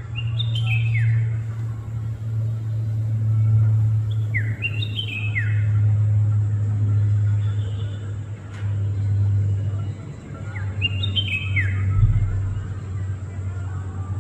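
Red-whiskered bulbul singing: three short phrases of quick, falling whistled notes, several seconds apart. A steady low rumble runs underneath, with a dull thump near the end.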